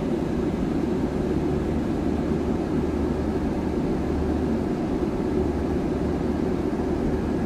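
Airliner cabin noise in flight: a steady low rush of engines and airflow, even and unbroken.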